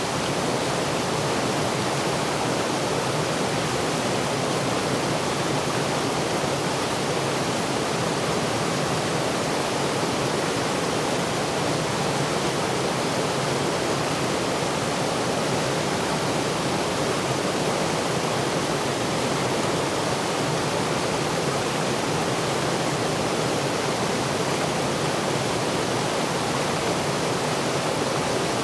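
Waterfall rushing, a steady even roar of falling water with no change.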